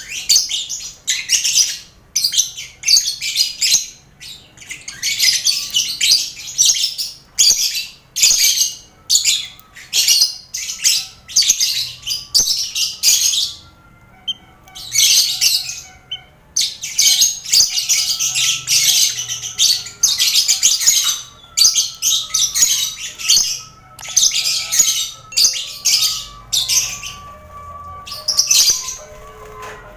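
A colony of lovebirds chattering in harsh, high-pitched bursts, one after another with short pauses; the bursts thin out near the end.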